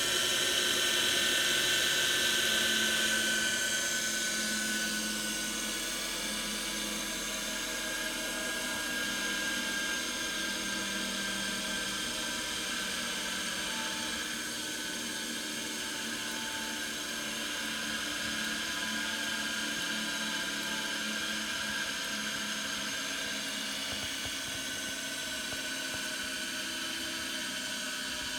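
Craftsman 1 hp capacitor electric motor running steadily with a whine, a little louder in the first few seconds and then even.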